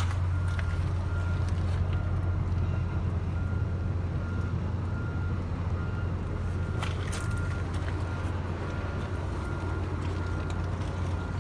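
A steady low engine hum, with a back-up alarm faintly beeping about once a second.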